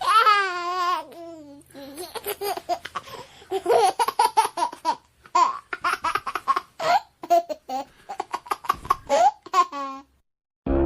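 Baby laughter: a long wavering squeal at the start, then a run of short, quick laughing and babbling bursts that stop suddenly near the end.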